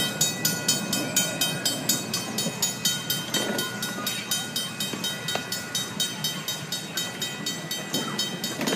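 Park miniature train running along its track, heard from aboard: a rapid, even clicking about five times a second over a low rumble.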